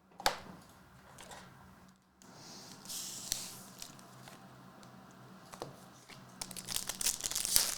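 Trading cards and their foil pack wrapper being handled: soft rustling with a few sharp clicks, turning into busy crinkling in the last second or so.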